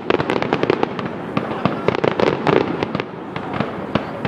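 Fireworks display going off: a dense run of sharp bangs and crackles, several a second, over a continuous rumble of bursting shells.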